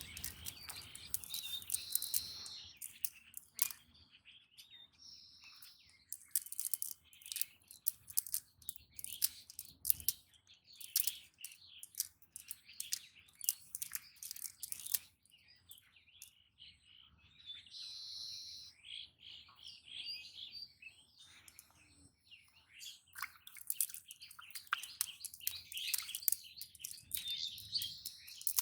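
Small birds chirping repeatedly, their calls high and short, mixed with many brief sharp clicks.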